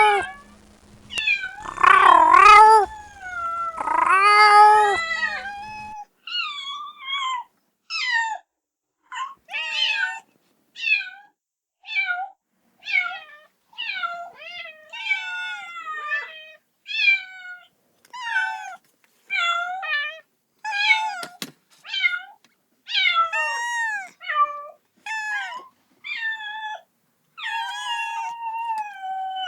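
Kitten meowing again and again, crying for its mother. The first few seconds hold three loud, longer, lower meows over a low hum. After that come short, high-pitched meows that fall in pitch, about one a second, with a single sharp click about two-thirds of the way through.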